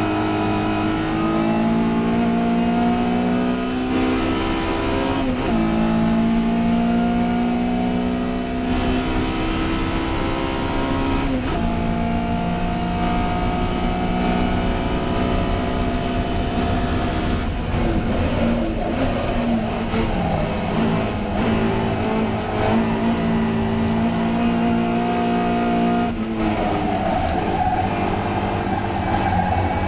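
Touring race car engine under hard acceleration: its pitch climbs steadily through each gear and drops suddenly at the gear changes, about five, eleven and twenty-six seconds in. Midway there is a stretch of lower, uneven revs that fall and rise.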